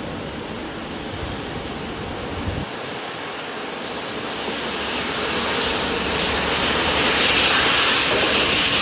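A train approaching along the line, its running noise growing steadily louder from about four seconds in.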